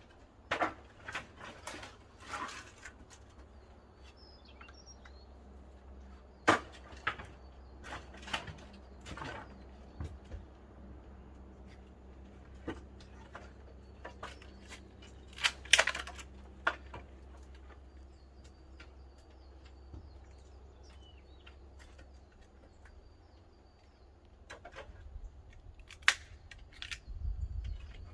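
Pine firewood burning in the firebox of a wood-fired pottery kiln, crackling and popping irregularly over a low steady rumble, with a few sharper cracks about six, sixteen and twenty-six seconds in.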